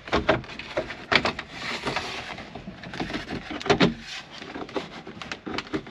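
Plastic dashboard trim being worked loose by hand: a run of clicks and knocks, with a brief scraping rush about two seconds in.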